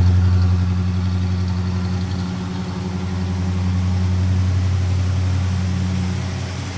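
A 1960 Plymouth Belvedere's 318 poly V8 (1966 vintage) idling steadily, still cold from a cold start. It is loudest at the exhaust and grows quieter along the side of the car.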